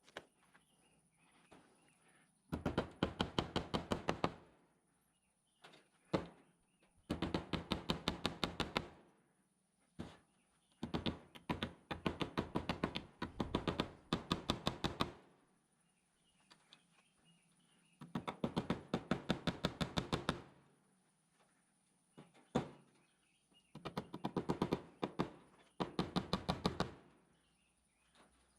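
Cordless impact driver driving fasteners into a wooden frame: six bursts of rapid, even hammering, each about two seconds long and a few seconds apart, with single knocks between them.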